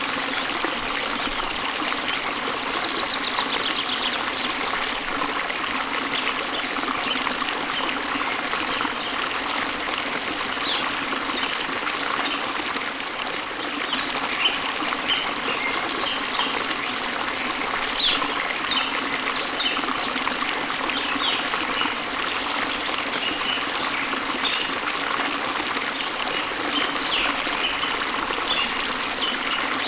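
Steady rush of falling water, with small birds chirping now and then over it, more often in the second half.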